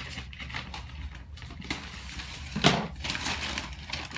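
Paper wrapping around an orchid rustling and crinkling as it is handled and cut away, with one louder crackle about two-thirds of the way through.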